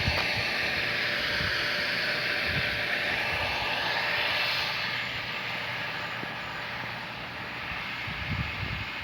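Water-supply pump motor running steadily, a rushing mechanical noise that grows fainter after about five seconds, with a few low knocks near the end.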